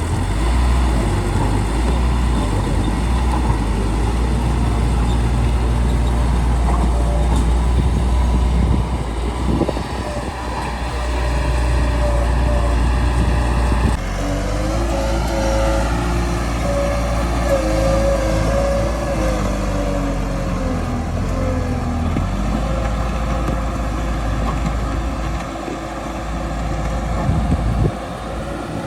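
Bulldozer's diesel engine running steadily while it works. About halfway through the sound changes abruptly, and a pitched whine that rises and falls joins the engine.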